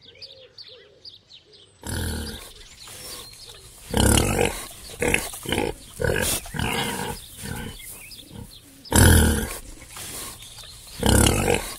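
Domestic pig oinking in a run of loud, rough calls with short pauses, starting about two seconds in. Faint bird chirps come before it.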